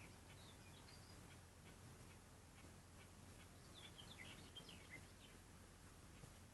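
Faint birdsong: scattered short, high chirps, a few near the start and a busier run of them around four to five seconds in, over a faint steady low hum.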